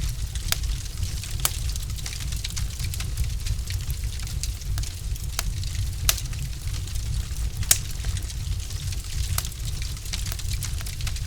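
Logs burning in a fireplace, crackling: a steady scatter of small snaps with a few sharper, louder pops, over a low steady rumble of the fire.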